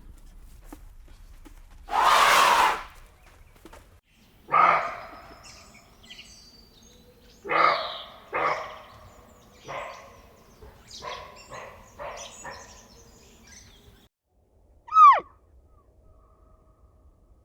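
A series of separate animal calls: a harsh noisy burst, then a run of short calls that grow fainter, then one clear call falling in pitch near the end.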